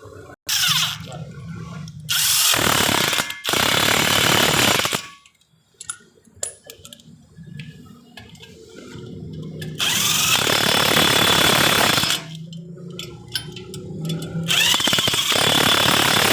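A power tool run loudly in five short bursts, each from about half a second to two and a half seconds long, with a low steady hum between them.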